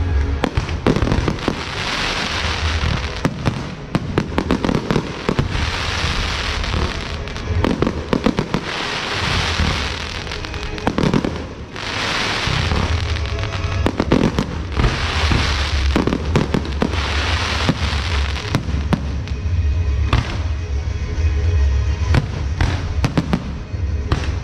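Firecrackers and fireworks going off without a break: rapid cracking that swells into dense surges of crackle every few seconds, with steady music underneath.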